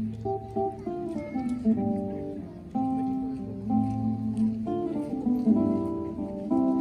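Acoustic guitar playing a slow run of ringing chords and plucked notes, changing about once a second.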